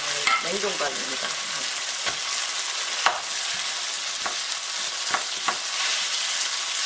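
Minced pork and chili seasoning sizzling steadily in a frying pan while a slab of thawed frozen rice is broken up and stirred in with a wooden spoon and a wooden spatula. There are a few short knocks of the wooden utensils against the pan.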